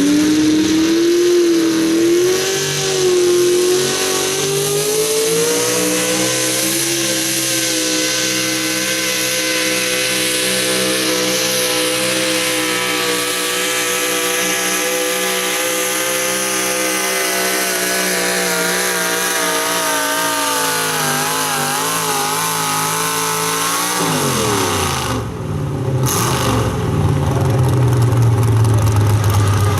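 Super stock two-wheel-drive pulling truck's engine run at high revs under load down the track. The pitch climbs at the start, holds high, and wavers with small dips a little before the end of the pull. The revs then fall sharply as it lets off, and it settles into a low, steady idle.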